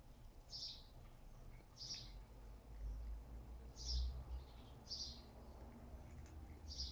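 A small bird chirping, five short high chirps about one to two seconds apart, over a low rumble that swells briefly about four seconds in.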